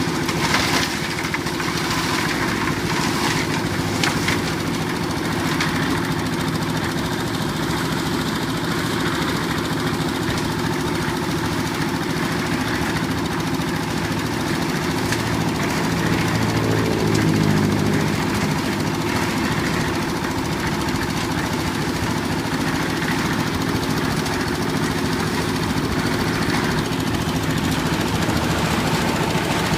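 Old diesel engine of a concrete mixer running steadily, with a few sharp knocks in the first few seconds and a brief swell in the lower sound, falling in pitch, around halfway through.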